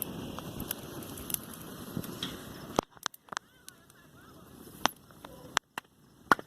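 Wood bonfire crackling, with scattered sharp pops. About three seconds in, the steady background noise suddenly drops away, leaving several loud, separate pops.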